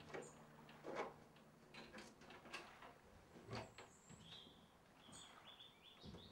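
Quiet room ambience: a few faint scattered knocks and creaks, with short high bird chirps and a brief whistled bird call in the second half.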